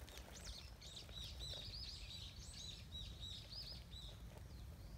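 A wild songbird singing a rapid series of short, high, arching notes, about four a second, which stops about four seconds in; a faint low rumble runs underneath.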